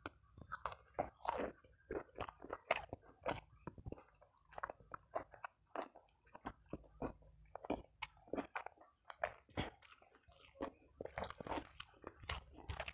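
A person chewing raw cassava leaves with chili sambal, then a handful of rice, with open mouth sounds: an uneven run of short clicks and wet smacks, a few a second.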